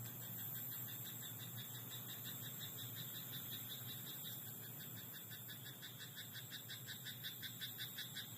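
A frog in a rice paddy calling in a fast run of repeated croaks, about five a second, starting a couple of seconds in and growing louder toward the end, over a steady high hiss.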